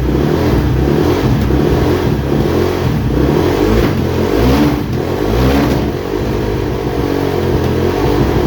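Kawasaki KX450F's single-cylinder four-stroke engine running off choke, with the throttle blipped so the revs rise and fall a couple of times about halfway through.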